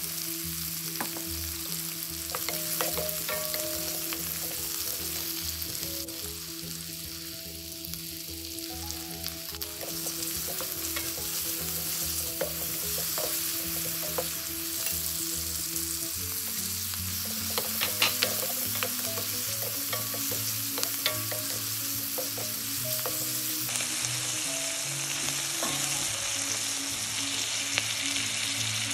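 Diced red onion sizzling in hot oil in a stainless-steel wok, a steady frying hiss. It is stirred with a wooden spoon that knocks and scrapes against the pan now and then.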